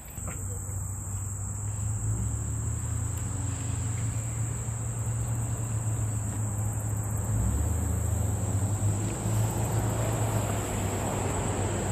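Insects, crickets or similar, trilling at one steady high pitch, over a steady low hum.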